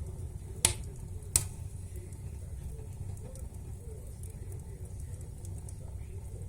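Firewood burning in a fireplace, crackling: two sharp pops under a second apart near the start, then fainter scattered crackles over a low steady rumble.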